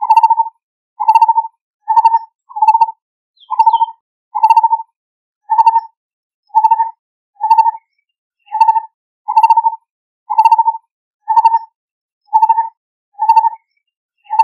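Lineated barbet calling: a long, even series of short, low notes, a little over one a second.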